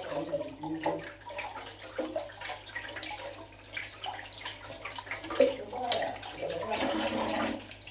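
Water splashing and sloshing irregularly as matumbo (beef tripe) is washed by hand.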